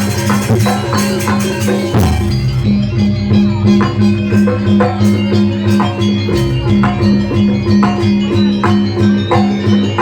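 Live jaranan accompaniment music: East Javanese gamelan-style percussion ensemble playing a steady repeating pattern of pitched metallic strokes with drum hits, with a heavy stroke about two seconds in.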